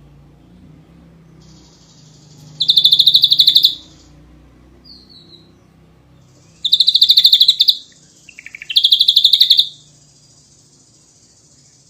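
Ashy drongo singing in loud rapid-fire bursts. There are three bursts of fast, evenly repeated high notes, each about a second long, and the last two come close together.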